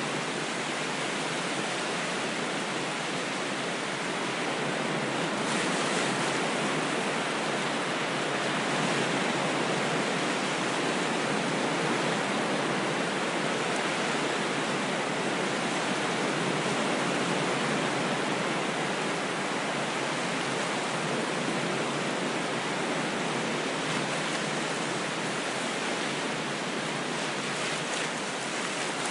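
Ocean waves washing on a shore: a steady rush of surf that swells a little about six seconds in.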